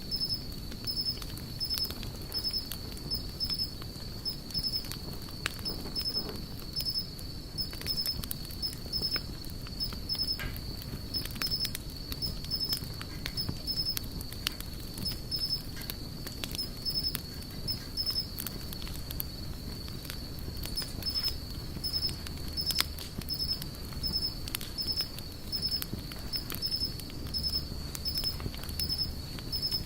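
Campfire crackling, with frequent small pops and snaps of burning wood over a low steady rush. A steady high-pitched insect trill with evenly repeating chirps runs behind it.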